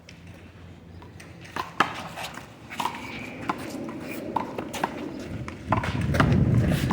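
Sharp, irregular slaps of a rubber handball struck by hand and hitting the wall and pavement during a one-wall handball rally, about one hit a second. Near the end a louder low rumbling noise rises under the hits.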